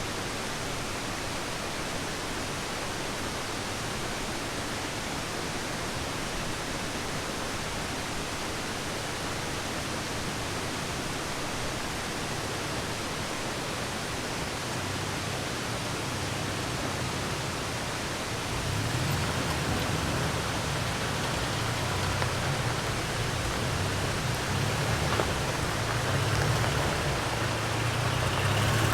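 Steady rushing of a creek. From about halfway through, the pickup's engine comes in underneath as a low drone that grows louder near the end.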